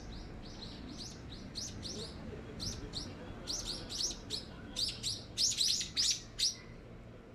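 Small bird chirping, a quick run of short high chirps that grows louder and stops about six and a half seconds in.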